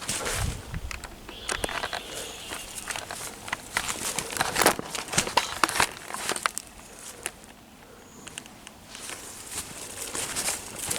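Footsteps crunching along a trail of forest floor, irregular crackling steps underfoot.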